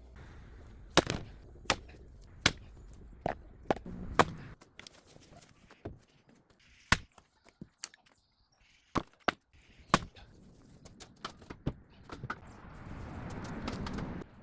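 Wood being struck: about a dozen sharp, irregular knocks, a few in quick pairs, followed near the end by a rustling, scraping noise.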